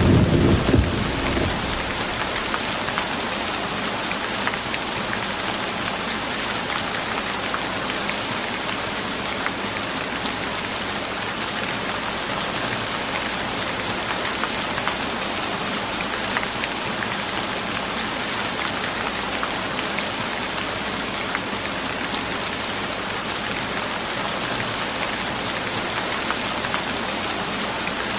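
Steady rain falling, an even hiss with scattered faint drop ticks. A low rumbling wash at the start dies away within the first second or two.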